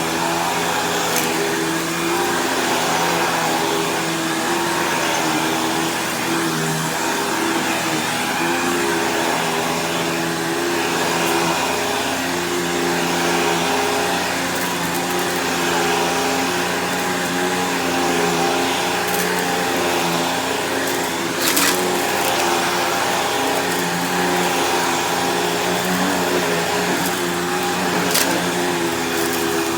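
Bissell CleanView Helix Deluxe upright vacuum cleaner running steadily while vacuuming, its motor hum slightly wavering as it is pushed back and forth, with the brushroll on a brand-new belt a little loud. A sharp click about two-thirds of the way through.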